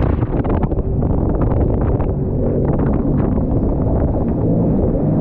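Jet ski engine running under way, nearly drowned by heavy wind buffeting on the microphone, with irregular knocks of spray and chop.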